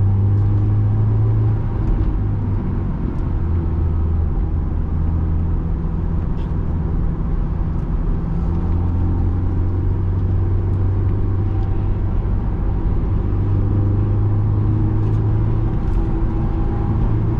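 Honda S2000's JDM F20C inline-four engine running as the car drives, heard from inside the cabin with the top up. The engine note holds steady with a few shifts in pitch.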